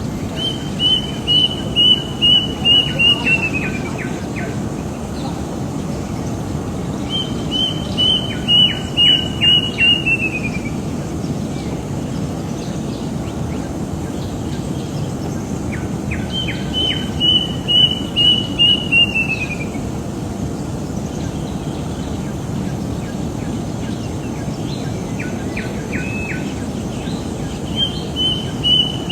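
A bird singing the same short phrase over and over, each time a quick run of about seven even notes that drops in pitch at the end, a few seconds apart. Under it is a steady low noise background.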